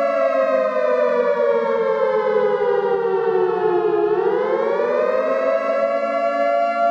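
Civil-defence-type warning siren sounding a flood alert: a steady wail whose pitch slowly sinks for about four seconds, then climbs back to its steady tone.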